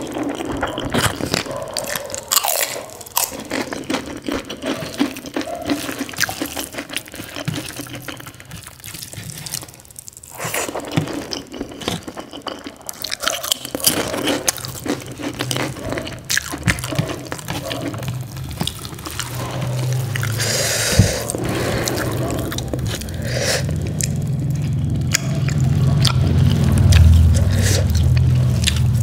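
Close-up eating sounds: chewing, lip smacks and crunching bites of rice and spicy soya chunks eaten by hand, with many short sharp clicks. A low rumble builds in the last third.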